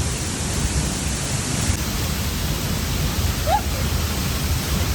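Steady, even rush of a waterfall's falling water, with a deep rumble underneath.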